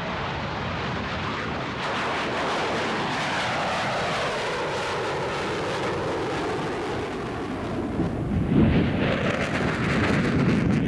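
FB-111 jet passing by on its twin turbofan engines: the engines' whine falls steadily in pitch as it goes past. About eight seconds in, a louder, deeper rumble swells in.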